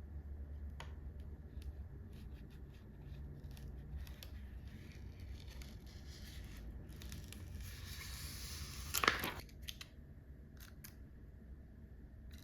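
Scissors snipping through paper, heard as a run of short clicks. A longer noisy stretch builds to its loudest moment about nine seconds in.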